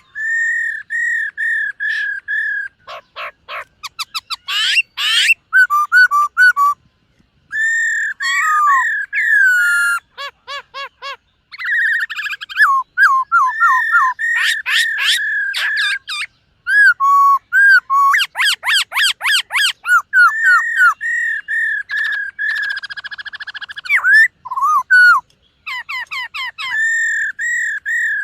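Black-throated laughingthrush singing a long, varied song of loud clear whistles, broken by runs of rapid repeated notes and trills.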